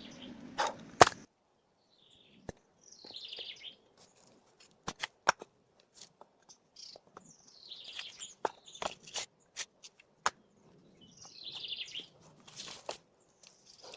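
Scattered sharp snaps and clicks with a few short, high rustling bursts, as of branches, leaves or sheeting being handled.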